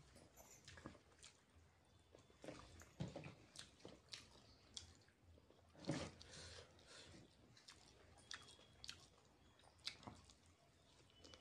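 Faint chewing and biting from a person eating noodles and chicken lollipop by hand: irregular small clicks and smacks, with the loudest about six seconds in. Near the end he bites into a fried chicken lollipop.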